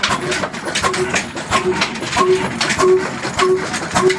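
Slow-speed single-cylinder Ruston-type 'kala desi' diesel engine running, with an even chugging exhaust beat: a sharp knock and a short ringing pop repeating about twice a second.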